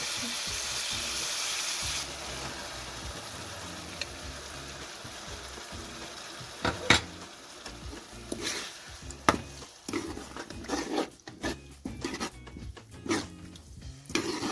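Minced meat frying in hot oil in a wok: a steady sizzle that slowly dies down. A sharp knock comes a little before halfway, and in the second half a steel spoon scrapes across the pan again and again as the mince is stirred.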